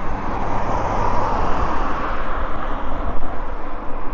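Steady rumble of wind on the microphone and tyre noise from a mountain bike being ridden along a road, swelling a little about a second in.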